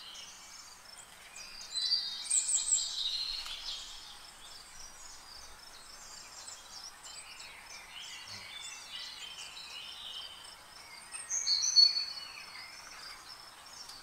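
Several birds chirping and trilling in trees, with louder bursts of song about two seconds in and again near the end.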